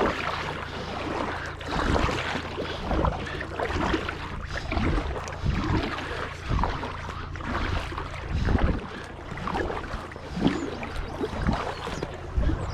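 Paddle strokes and water splashing around a small paddled boat, uneven and irregular, over a steady low rumble.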